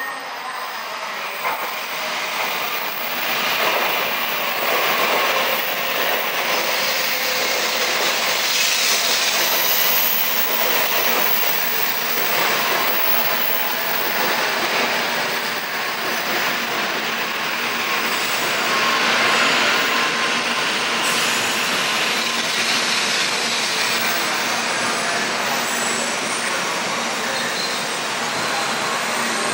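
Shinkansen train running alongside the station platform: a steady rush of wheel and running noise with some wheel squeal. It swells over the first few seconds, then holds.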